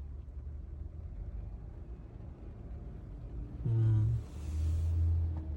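Low, steady street-traffic rumble. Nearly four seconds in, a vehicle passes close, its engine briefly rising in pitch along with tyre hiss, before it fades back into the rumble.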